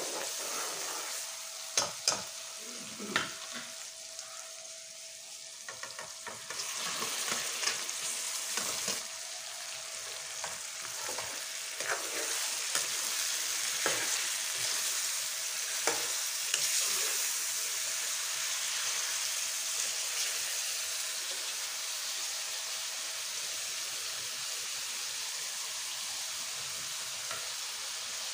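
Onion-masala base frying in oil in a wok, with a metal ladle tapping and scraping the pan a few times early on. About six seconds in, the sizzle swells into a loud, steady hiss as raw chicken pieces fry in the hot oil and are stirred.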